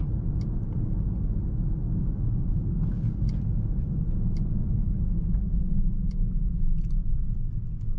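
Steady low rumble of road and tyre noise heard inside the cabin of a 2024 Mercedes-AMG S63 sedan on the move, with a few faint ticks.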